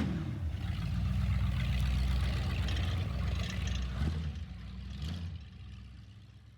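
1991 GMC Sonoma pickup's engine idling through its new Cherry Bomb muffler exhaust, a steady low drone that fades out near the end.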